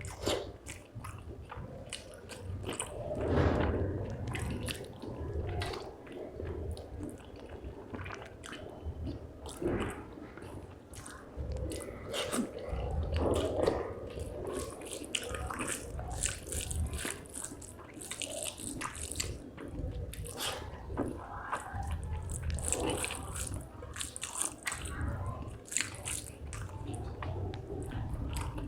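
Close-up chewing of rice and fish curry: a continuous run of wet smacks, squelches and soft crunches in irregular bites.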